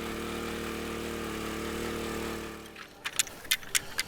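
A small engine running steadily, then dying away about two and a half seconds in, followed by several sharp metallic clicks and rattles.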